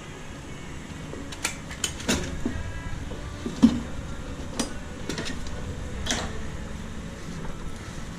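Irregular clicks and knocks of tools and parts being handled while an engine is taken out, about half a dozen in all, the loudest about three and a half seconds in, over a low steady hum.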